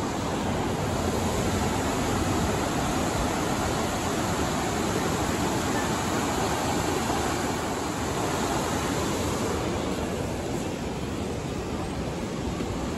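Sagano scenic trolley train running, heard from its open-sided car: a steady rumble of wheels on rail mixed with rushing wind.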